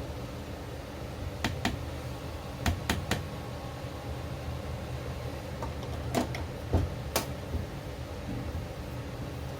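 A scattering of short, sharp clicks and knocks, about eight in all, in small clusters over a steady low hum.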